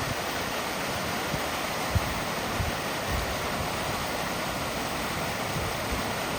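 Small waterfall pouring into a pool: a steady, even rush of falling water, with a brief low thump about two seconds in.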